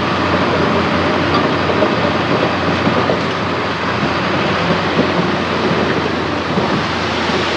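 Heavy earthmoving machinery running steadily, its diesel engine note under a constant clatter of metal.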